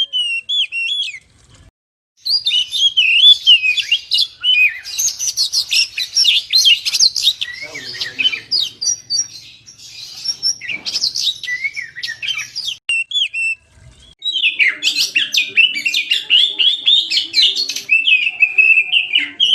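Oriental magpie-robin (kacer) in full song: fast, varied whistled phrases and rapid note runs, breaking off briefly twice, about two seconds in and about fourteen seconds in.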